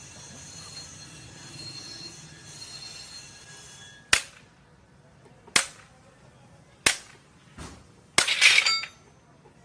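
Workshop metalwork: a steady machine hum with a faint high whine, which stops about four seconds in. Then come sharp metal strikes roughly one to one and a half seconds apart, and a final clattering strike that rings near the end.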